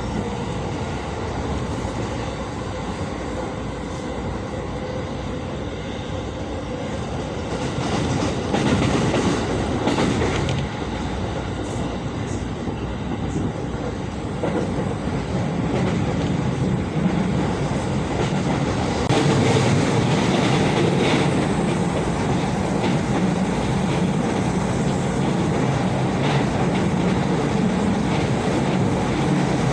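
Running noise of a JR Tokaido Line train heard from inside the passenger car: a steady rumble of wheels on rail with scattered rail-joint clicks. It grows somewhat louder about two-thirds of the way through.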